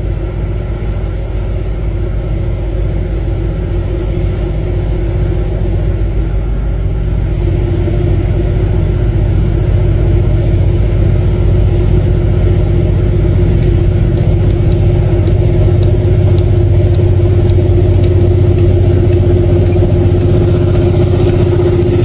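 A large engine running steadily under load with a deep rumble and a held droning tone, growing slowly louder as it draws closer.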